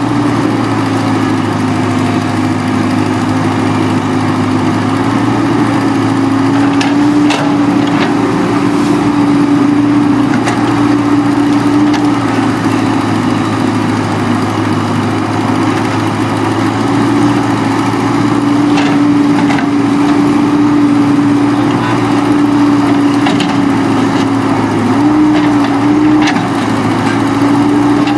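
Heavy earthmoving machine's engine running steadily, its pitch dipping and recovering a few times as the load changes, with a few short knocks along the way.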